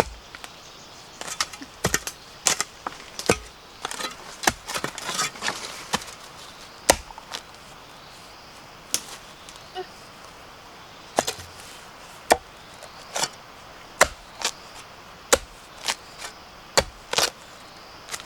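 Chopping with a blade: a run of sharp strikes at an uneven pace, roughly one a second, with a few quick clusters.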